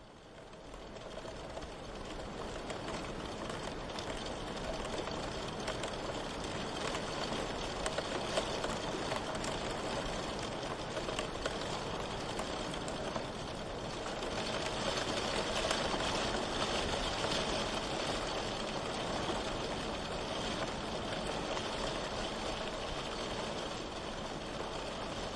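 Steady rain ambience, a soft even hiss of falling rain with scattered drop ticks, fading in over the first couple of seconds.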